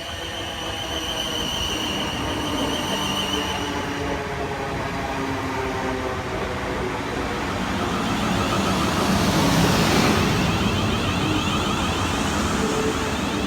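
Passenger train running along the platform, growing louder to a peak about ten seconds in. Its drive gives whining tones that shift pitch in steps, over the rumble of wheels on rail.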